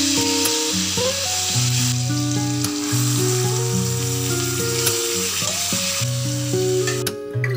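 Garlic and spices frying in oil in a steel pan, a steady sizzle that cuts off suddenly near the end, with instrumental background music playing throughout.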